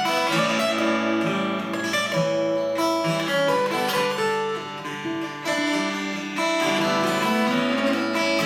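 Acoustic guitar played solo, chords strummed and picked in an instrumental break of a song.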